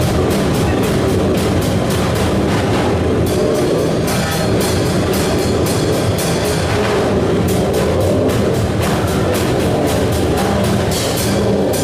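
Loud harsh noise music: a dense, distorted wall of sound driven by rapid, even percussive hits at about four to five a second.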